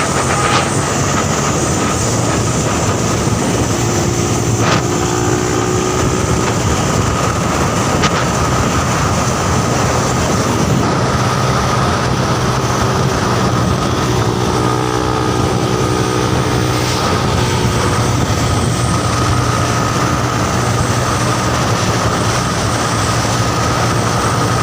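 Heavy truck on the move: a steady engine drone with continuous road noise and a thin, steady high whine.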